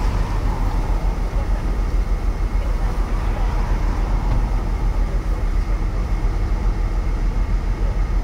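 Steady low rumble and rushing noise, its lowest part fluttering unevenly like wind on a microphone.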